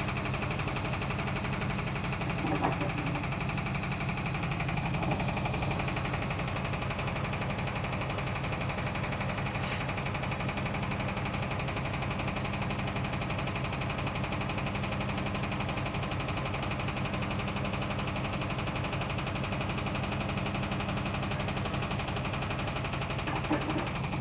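Logik L814WM16 washing machine running with a steady, rapid grinding noise that does not let up, a sign the owner takes as the machine being fit for scrap.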